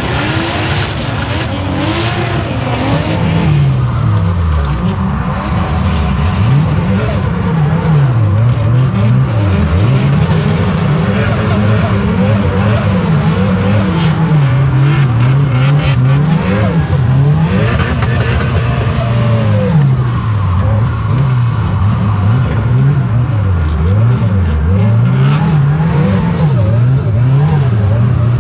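Nissan CA18 turbo four-cylinder engine heard from inside the car, revving up and falling back again and again as the car is driven hard.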